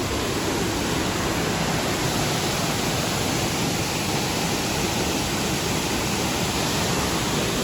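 Shifen Waterfall's steady rushing roar of falling water, even and unbroken.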